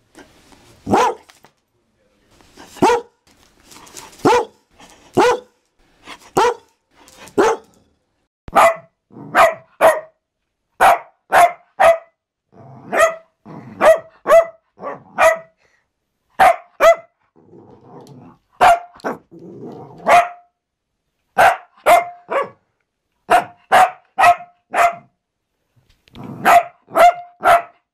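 Dalmatian barking, single barks about once a second. From about eight seconds in, a King Charles spaniel barks instead, higher-pitched, in quick runs of two to four barks.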